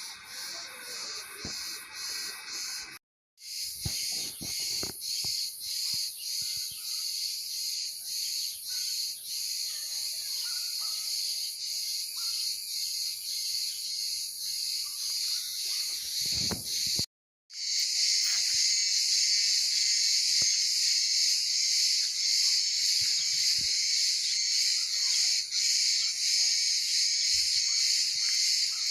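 An insect chorus buzzing steadily in high pitch and pulsing a couple of times a second, cut off briefly twice by edits.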